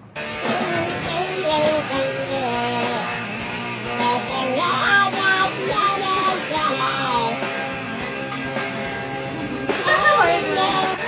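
Rock music with electric guitar and a singing voice, starting abruptly and playing loudly throughout.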